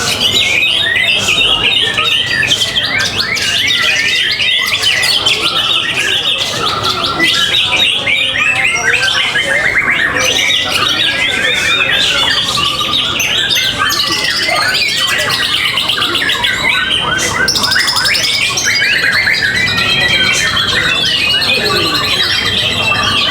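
Many caged songbirds singing at once: a dense, steady chorus of overlapping chirps, trills and whistles.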